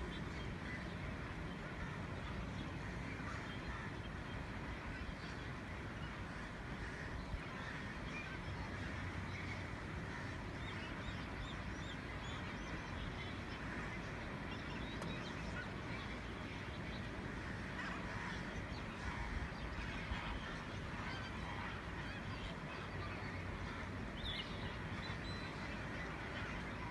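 A large flock of flamingos calling together: a steady chorus of many overlapping honks.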